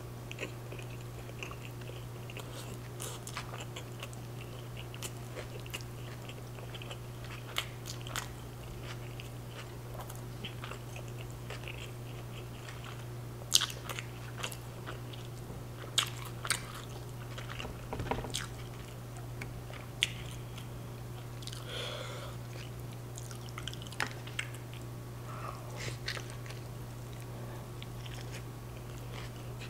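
Close-miked chewing and biting of soft street tacos, wet mouth sounds with scattered sharp crunches and clicks. The loudest come in the middle stretch.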